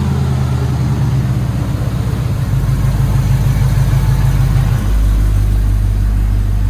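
Engine of a 1969 Chevy K20 pickup running loud. It holds slightly raised revs, then drops back to a lower, steady idle about five seconds in.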